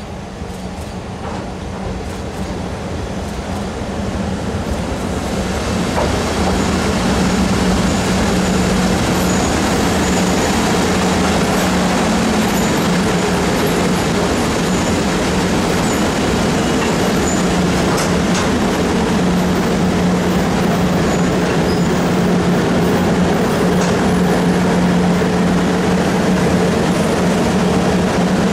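A train running on the track nearby, its sound building over the first few seconds and then holding steady and loud, with a steady motor hum and faint wheel clicks.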